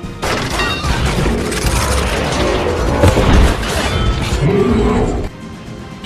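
Stop-motion soundtrack of crash, boom and mechanical clatter sound effects over music, starting abruptly and cutting off about five seconds in.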